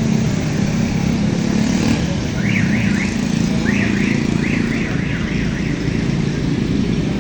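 Pressure washer running steadily at a bike wash, its motor humming under the hiss of the spray. For about three seconds in the middle, a string of quick rising chirps sounds over it.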